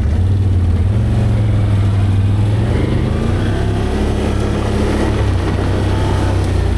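ATV engine running as the machine rides along a trail: a steady, loud low rumble whose pitch shifts slightly with the throttle.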